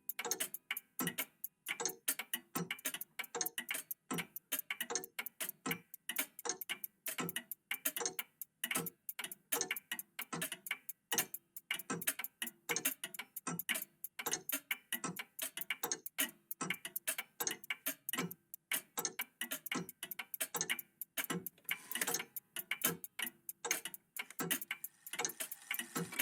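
Several old mechanical clocks, a cuckoo clock among them, ticking together: overlapping, uneven ticks at about three to four a second.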